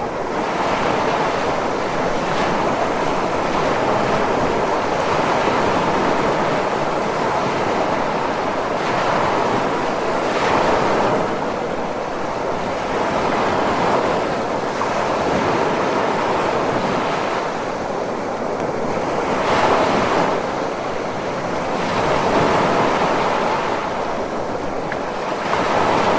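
Ocean surf: a continuous rushing wash of waves that swells louder every few seconds as each wave breaks, then eases off.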